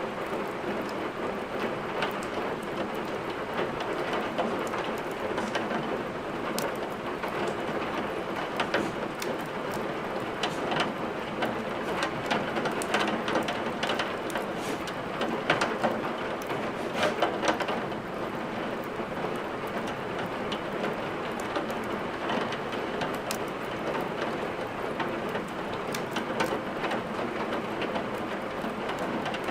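Steady rain, mixed with the crackle of wood burning in a fireplace: sharp pops and snaps over an even hiss, coming thickest in the first half.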